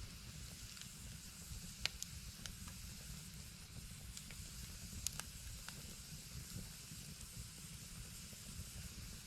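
Small fire burning with a soft hiss and a few sharp crackling pops, about two seconds in and again around five seconds in, over a low steady rumble.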